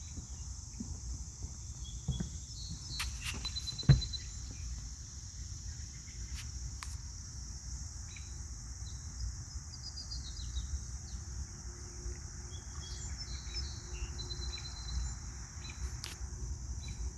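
Steady, high-pitched insect chorus over a wetland, with short bird chirps now and then and a low wind or handling rumble. There is one sharp knock about four seconds in.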